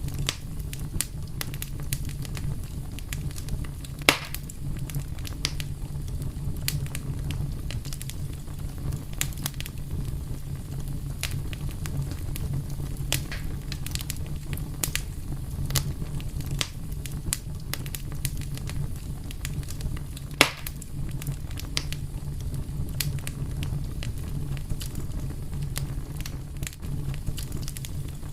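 Wood fire burning with a steady low rumble and frequent small crackles, and two louder pops about four seconds in and near the middle.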